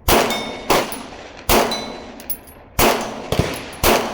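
Glock 19X 9mm pistol fired at an unhurried pace, about five shots in four seconds, with steel targets ringing faintly after hits.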